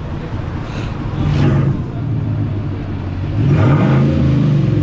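Vehicle engine idling and being revved through an exhaust muffler that is being tried out: a short rev about a second in, then a longer, louder rev near the end.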